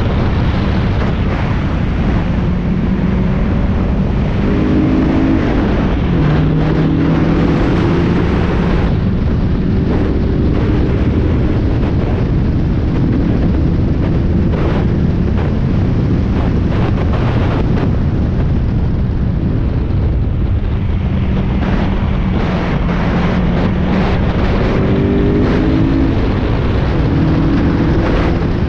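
Spec Miata race car's four-cylinder engine at full racing speed, its pitch climbing and dropping as the driver shifts and lifts through the corners, under heavy wind and road noise.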